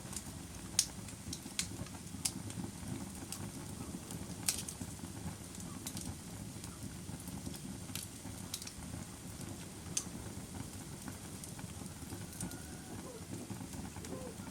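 Wood fire crackling, with sharp, irregular pops and snaps over a low steady rumble of burning.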